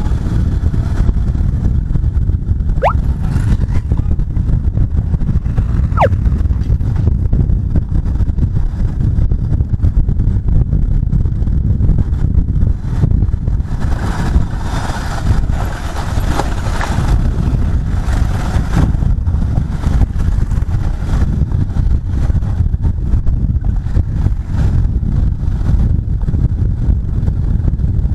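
Bajaj Pulsar 150 motorcycle's single-cylinder engine running while riding, under a dense, steady low rumble, with a brighter stretch about halfway through.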